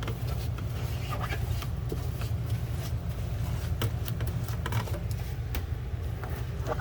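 Steady low hum of an RV air conditioner running, with faint scattered scrapes and clicks from cleaning.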